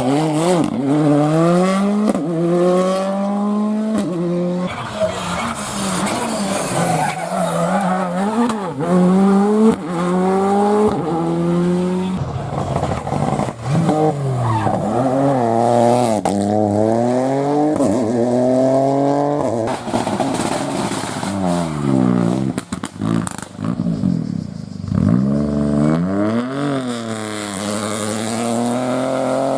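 Rally cars driven hard on a stage, the engine note climbing under full throttle and falling back over and over as the gears are changed and the cars brake for corners.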